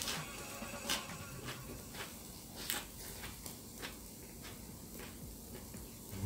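Close-miked chewing of a mouthful of grilled beef wrapped in fresh greens, with wet mouth clicks, the sharpest about a second in and near three seconds in.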